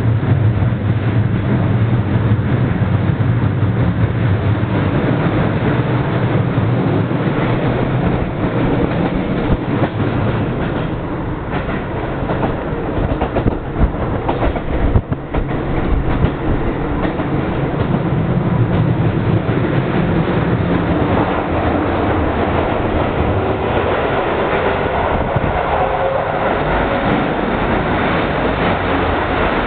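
Keio Line commuter train running, heard from inside the passenger car: steady rolling noise of the wheels on the rails, with a few sharper knocks from the wheels over rail joints about halfway through.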